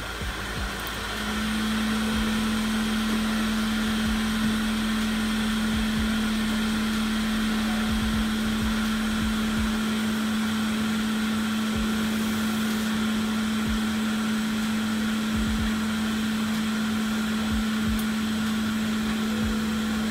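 Steady hum of a small electric fan or motor with a constant low tone, coming on about a second in and running evenly.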